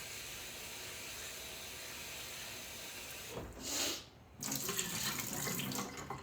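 Water running steadily from a tap into a sink, with a short louder gush about three and a half seconds in before the flow cuts off near four seconds.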